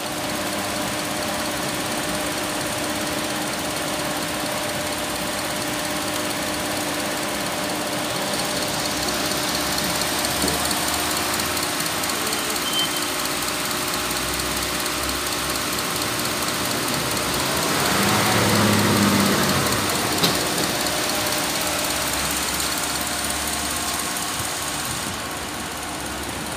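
Subaru Forester 2.5-litre flat-four engine, 40,090 km on it, idling steadily under an open bonnet, with a brief swell in level about two-thirds of the way through.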